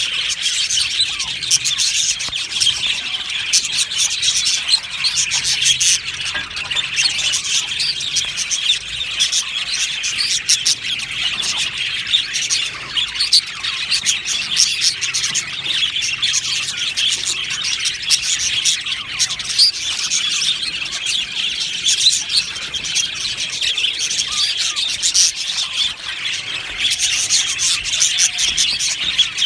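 A colony of budgerigars chattering and chirping together, many birds at once in a dense, unbroken warble of high, rapid chirps and squeaks.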